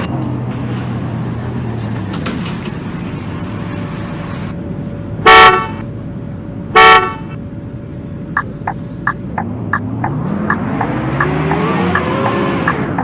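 Diesel engine of a Scania K230UB bus running, with two short, loud horn toots about five and seven seconds in. Regular ticking follows at about three a second, then the engine note rises steadily as the bus accelerates and drops off near the end.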